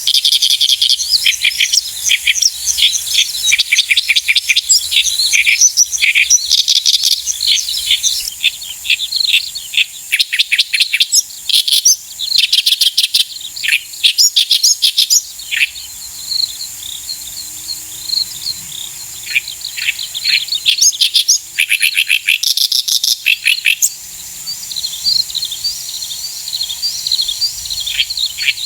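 Bird song: quick high chirps and trills in dense, overlapping runs, thinning out in places and picking up again.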